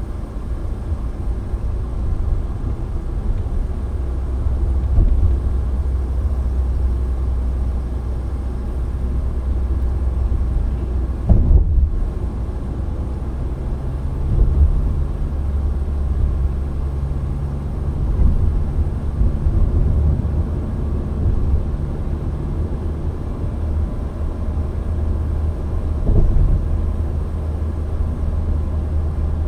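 Steady low rumble of a car driving, road and engine noise heard from inside the cabin, with a sharp knock about eleven seconds in.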